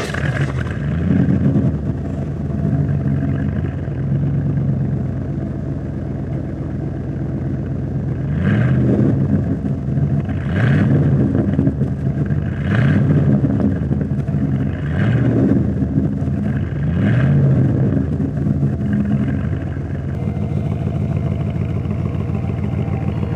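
1985 Ford F-150 truck engine idling right after starting, then blipped five times in short revs about two seconds apart before settling back to idle.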